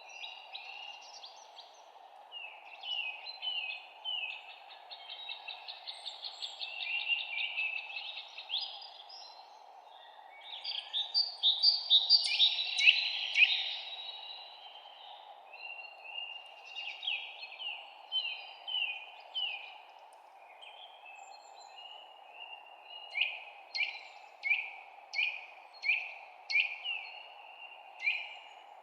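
Songbirds singing: runs of quick downward-sliding chirps, a loud jumbled song phrase about halfway through, and near the end a slower series of about seven clear down-slurred notes. A steady low hiss lies underneath.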